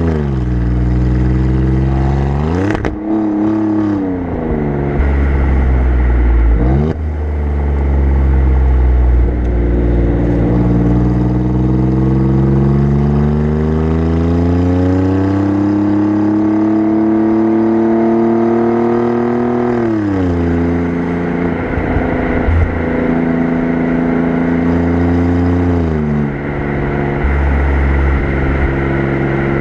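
Alfa Romeo Giulia Quadrifoglio's twin-turbo V6 exhaust, heard close up at the rear bumper, during an easy drive. Engine speed falls and rises several times, with brief clicks at two of the changes about three and seven seconds in, a long slow climb through the middle, a drop about two-thirds through and a steadier stretch near the end.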